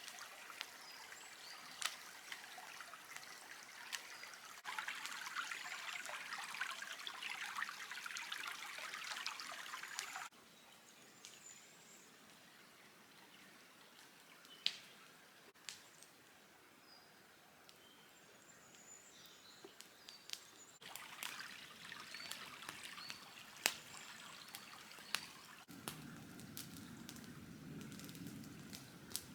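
Quiet campsite sounds in several short cut-together clips: a steady trickling hiss, loudest between about five and ten seconds in, with scattered sharp crackles and faint bird chirps.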